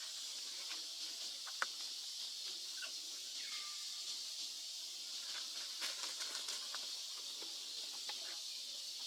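Outdoor ambience: a steady high-pitched hiss, with scattered light clicks and snaps and one short falling call about three and a half seconds in.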